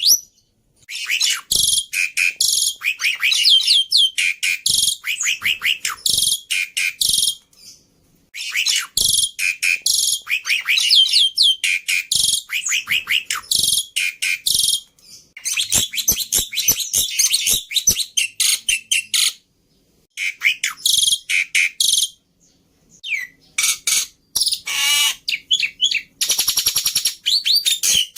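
Black-winged myna song: loud, rapid, chattering phrases of squeaks and chirps broken by short pauses, with a warbled whistle and then a fast, even trill near the end.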